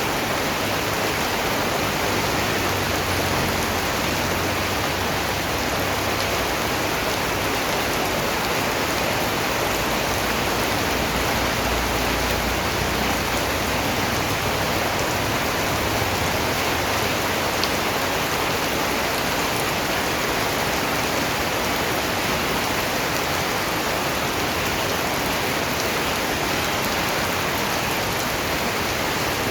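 Steady rain falling on a surface, an even hiss of many drops with no single strike standing out.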